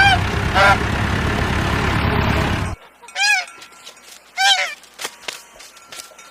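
Domestic geese honking, four honks in all. The first two come over a steady low rumble that cuts off suddenly about three seconds in, and the last two are heard clearly, followed by a few short clicks.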